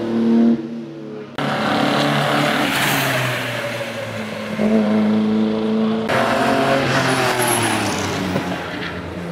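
Classic racing car engines revving hard under load, the pitch rising and falling as the cars accelerate and shift. The sound changes abruptly twice, with a louder, noisier stretch in the middle.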